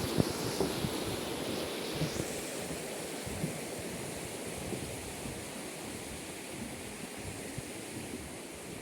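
Wind rushing through the trees and buffeting the microphone, a steady noise that eases slightly toward the end, with a few light clicks near the start.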